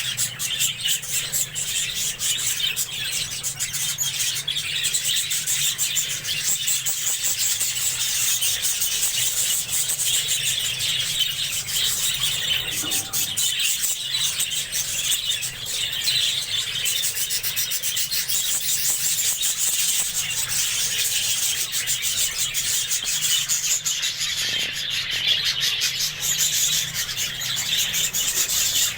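A flock of budgerigars chattering and chirping without pause, a dense high-pitched twitter of many birds at once.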